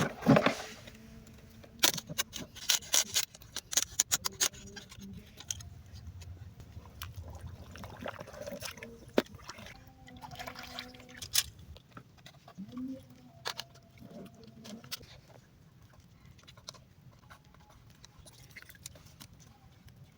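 Water splashing and sloshing, with a busy run of sharp clicks and knocks over the first few seconds, then quieter scattered splashes and drips.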